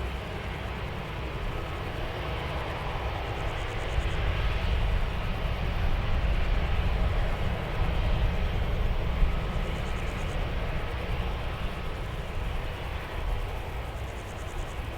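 Jet aircraft engines running at a distance, a steady rush with a faint whine that swells through the middle and eases off near the end. Wind rumbles on the microphone underneath.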